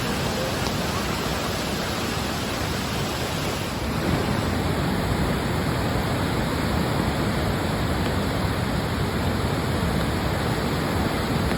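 Floodwater rushing in a creek swollen to flood stage: a steady rush of water that gets a little louder about four seconds in.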